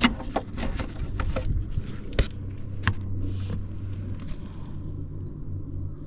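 Yamaha Vino's small two-stroke single-cylinder engine idling steadily, with several sharp clicks and knocks over the first three seconds.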